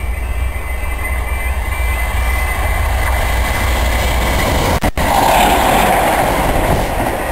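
Multiple-unit passenger train approaching and passing close at speed, a rushing wheel-and-rail noise that builds and is loudest from about five seconds in, over low wind rumble on the microphone.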